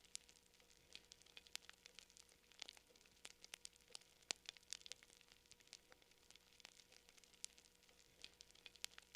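Campfire crackling quietly: burning wood giving off quick, irregular snaps and pops, several a second.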